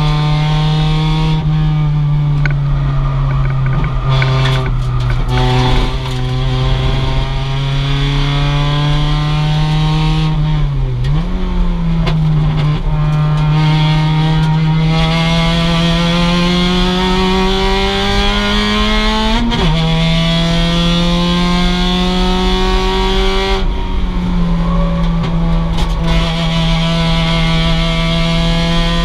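2006 Mazda MX-5's stock four-cylinder engine running hard under load, its pitch climbing slowly through the gears. The note dips sharply about eleven seconds in and drops suddenly again a little before twenty seconds, like a lift or a gear change, then climbs once more.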